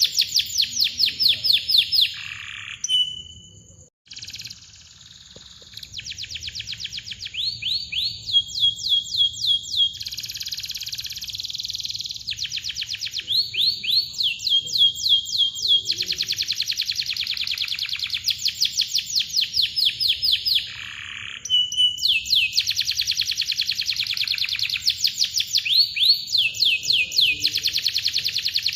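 Canary singing: long close trills of fast chirping notes, each note falling in pitch, about eight a second, in phrases separated by brief pauses, with a sudden cut about four seconds in.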